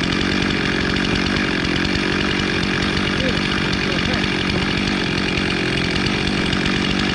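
Chainsaw running steadily at full throttle without a break.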